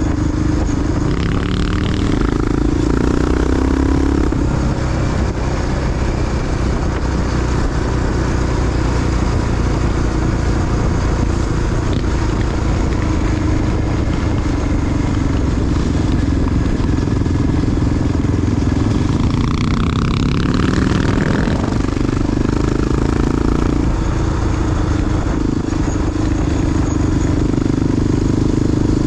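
Single-cylinder four-stroke Honda XR dual-sport motorcycle engine running under way. The engine pitch rises under throttle about two seconds in, again around twenty seconds in, and once more near the end.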